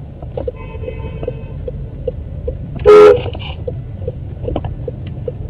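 A single short car horn blast about three seconds in, over the steady low rumble of a car in motion, with light regular ticking about two and a half times a second.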